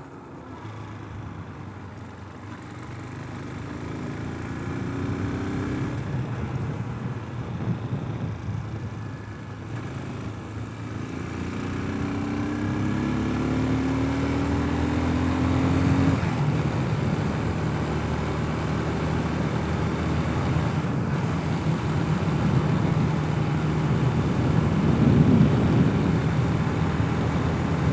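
Brozz 250 enduro motorcycle engine accelerating through the gears. Its pitch climbs and then drops at a shift twice, then settles into a steadier cruise. Road and wind noise grow louder toward the end.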